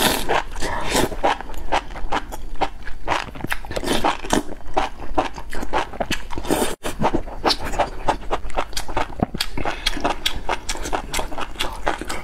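Close-up slurping and chewing of enoki mushrooms in chili broth: a dense run of wet mouth clicks and smacks, broken by a short gap about seven seconds in.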